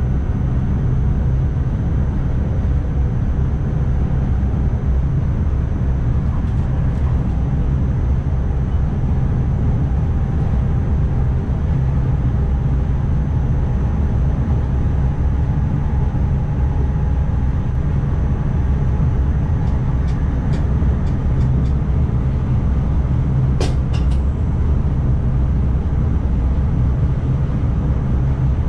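Driver's cab of an NS ICMm (Koploper) electric intercity train under way: a steady low rumble of the train running on the track. A few short sharp clicks come about 20 to 24 seconds in.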